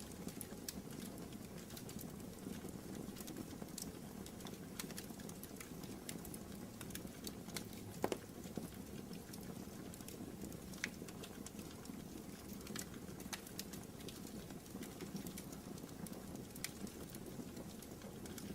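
Wood fire burning in a fireplace, crackling with scattered small snaps over a steady low rush of flame, and one louder pop about eight seconds in.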